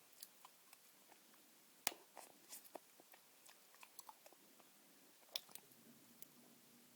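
Chewing gum close to the microphone: soft, irregular wet clicks and smacks, with two louder sharp clicks, about two seconds in and a little after five seconds.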